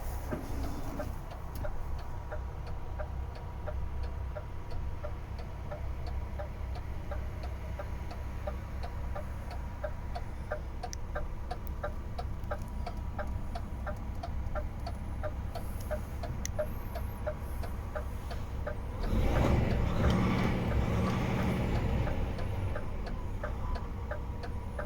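DAF XF 480 truck's 12.9-litre six-cylinder diesel idling, with a steady rapid ticking over it. About nineteen seconds in, the engine is revved and grows louder for a few seconds, then eases back toward idle.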